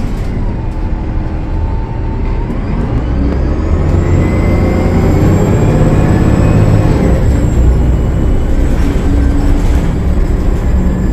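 A Gillig Low Floor transit bus's Cummins ISL9 diesel engine pulling under power, getting louder about four seconds in. A high whine rises with it, holds, then eases off as the bus stops accelerating.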